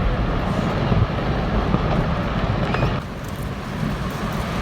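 Low, rumbling rush of a glacier collapsing into the sea and the large wave of water it sends out, a steady noisy roar that drops a little suddenly about three seconds in.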